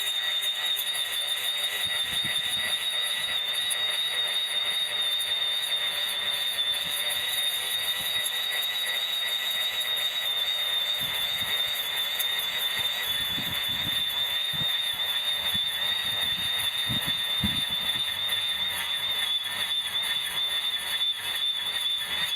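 Electric grass trimmer running steadily with a high-pitched whine, cutting grass, with a few faint low knocks toward the middle.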